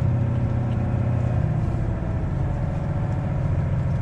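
Semi-truck's diesel engine pulling hard in third gear through deep snow, running steadily under load; its note shifts slightly lower about a second and a half in.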